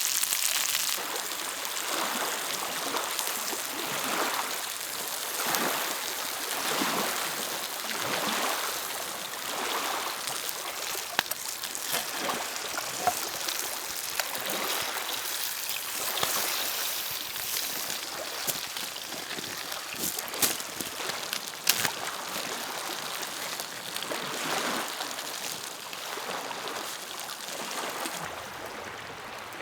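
Small lake waves lapping against the shore in soft washes every second or two, with a few sharp clicks around the middle.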